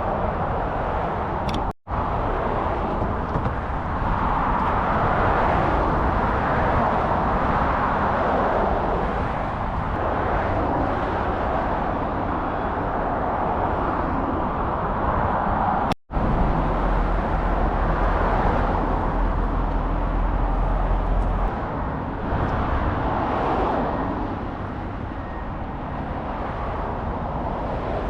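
Steady outdoor noise with a constant low rumble, of the kind made by wind and passing traffic. It cuts out for a split second twice, about two seconds in and about sixteen seconds in.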